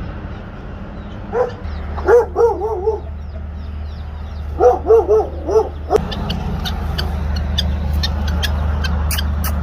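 An animal calling in two quick runs of short rising-and-falling calls, a few seconds apart, over a steady low hum.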